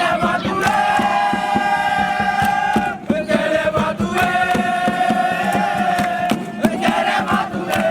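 A group of voices chanting in unison, holding two long notes of about two to three seconds each, over a steady fast beat of sharp strikes.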